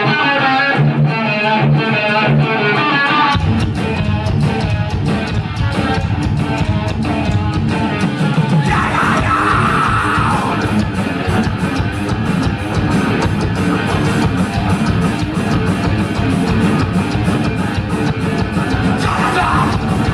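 Thrash metal band playing live: an electric guitar riff with little bass under it, then about three seconds in the bass and drums come in and the full band plays on, loud and dense.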